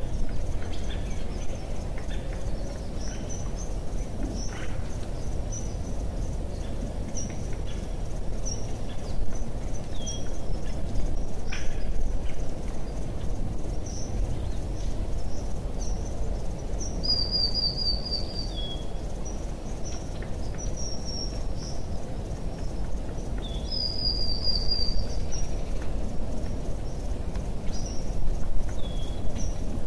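Birds calling over a steady low rumbling background noise: short high chirps repeating every second or so, and a quick trilled call heard three times in the latter half.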